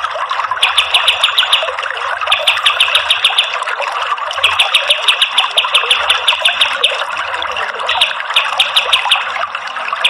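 Kapas tembak bird's rapid-fire song: bursts of quick, evenly spaced sharp high notes, about eight to ten a second, with short gaps between bursts, over a steady rush of running water.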